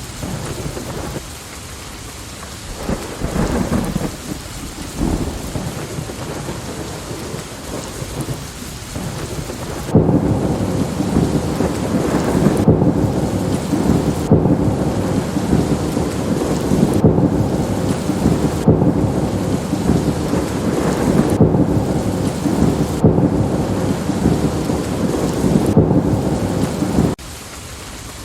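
Steady rain with thunder. A few low rumbles roll in at first. About ten seconds in, a loud crackling thunder rumble starts abruptly and runs on, then cuts off suddenly near the end.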